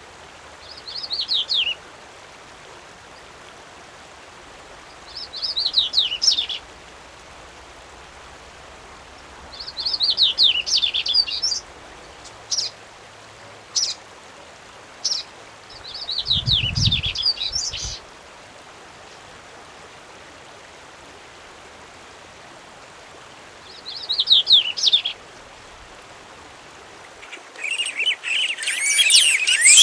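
A songbird singing short phrases of rapid falling notes every few seconds, with a few single sharp notes between them, over a steady hiss. Near the end a denser, louder birdsong takes over.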